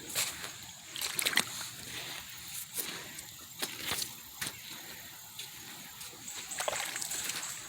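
Boots wading through a shallow creek: irregular splashing, sloshing steps, several over a few seconds.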